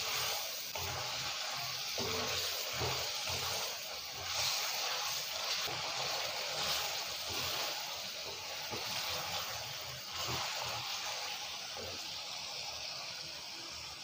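Chicken and masala sizzling in a hot karahi while a wooden spatula stirs and scrapes through it, a steady sizzle with irregular soft knocks. The mix is being bhuna-fried without water.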